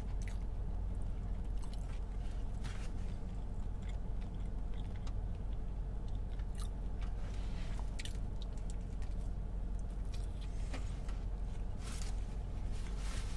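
Close-up chewing and biting of a taco: scattered wet mouth clicks and soft crunches, over a steady low hum.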